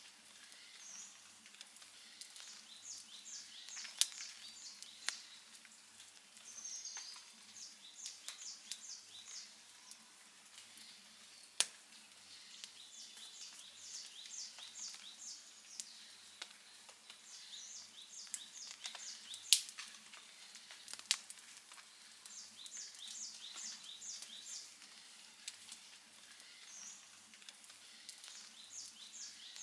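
Outdoor campfire crackling, with sharp pops now and then; the loudest comes about two-thirds of the way in. Over it runs a high chirping in short, quick runs, repeated throughout.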